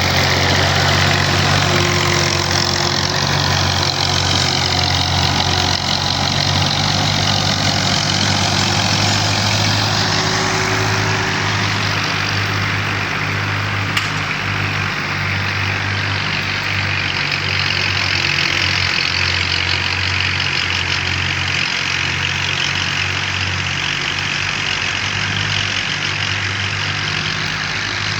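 Tractor engine running steadily at a low, even speed. A faint whine dips and rises over the first third, and there is a single sharp click about halfway through.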